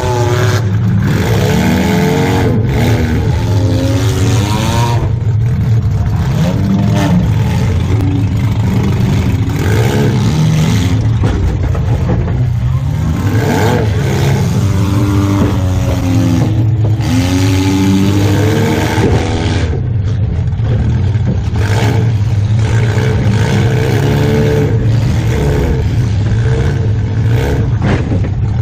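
Mini-class demolition derby car's engine heard from inside the stripped cabin, revving up and down again and again as the car manoeuvres.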